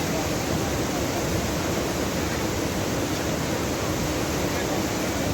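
Floodwater of a swollen river rushing past in a steady, loud, unbroken wash of noise.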